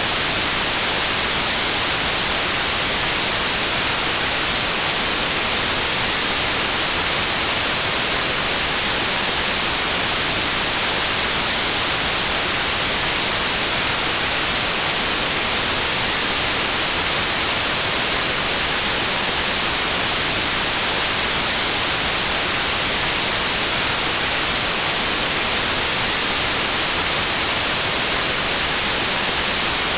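Steady white noise: an even, unchanging hiss, brightest in the high frequencies, with no tone or rhythm in it.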